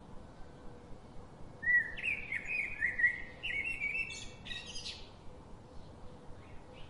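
A bird chirping in a quick run of warbling, sweeping notes, lasting about three seconds from near two seconds in.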